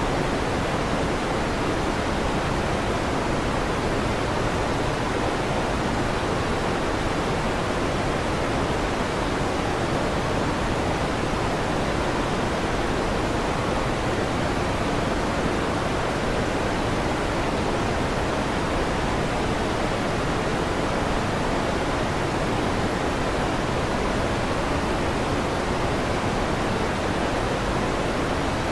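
Electric fan running, a steady even rushing hiss that never changes.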